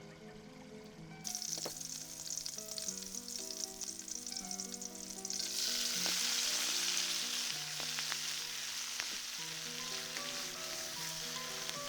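Eggplant frying in hot oil: a steady sizzle that starts about a second in and grows louder about five seconds in, with a few small spatters, over soft melodic background music.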